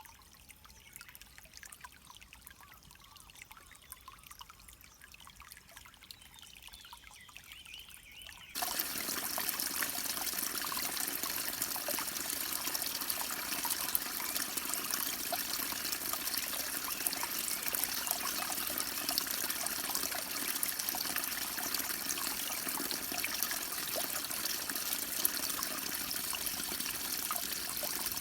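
River water flowing over rocks, a steady trickling and splashing. About eight seconds in it jumps suddenly from faint to much louder and stays steady.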